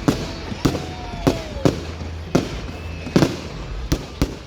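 Fireworks going off: a string of sharp bangs at uneven spacing, about two a second, two of them almost together.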